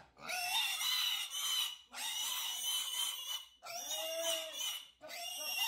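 Piglet squealing: four or five loud, shrill squeals of about a second each, with short breaks between them.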